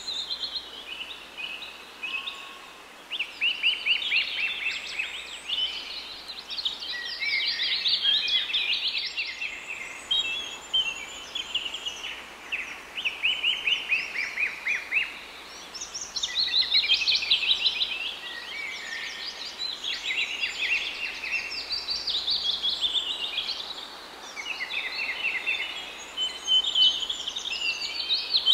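Several small songbirds singing in overlapping, high-pitched trills of rapid chirps, one phrase after another without a break.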